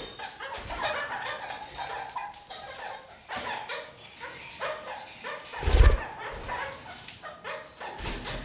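Red-crowned kakariki parakeets chattering and calling in quick, short notes, with small clicks among them. A single loud low thump about six seconds in.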